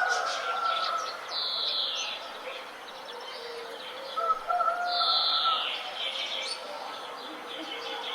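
Several wild birds singing and calling together. Two loud calls slide down in pitch, about four seconds apart, over a steady mix of chirps and lower held notes.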